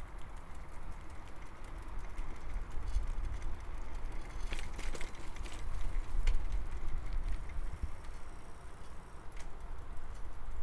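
Bicycle riding along a path, heard from a camera on the bike: a steady low rumble of wind and rolling tyres with scattered small rattling clicks, a cluster of them about four and a half seconds in.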